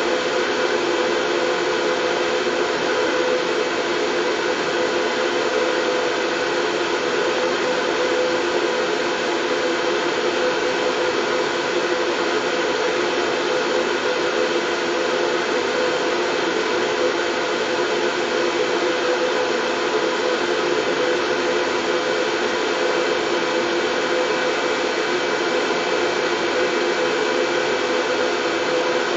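Steady white noise: an even, unchanging hiss with a faint steady hum running through it.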